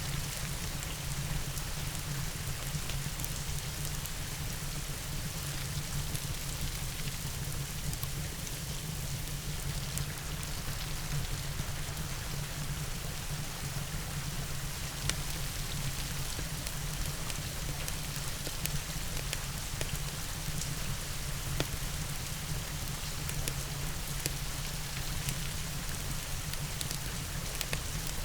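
Steady rain mixed with a fireplace: an even hiss over a low rumble, with scattered sharp ticks and crackles throughout.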